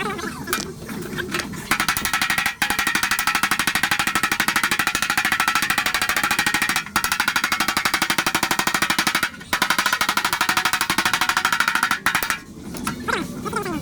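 A power tool in body-repair work runs with a fast, even hammering rattle, in four long runs with brief pauses between them.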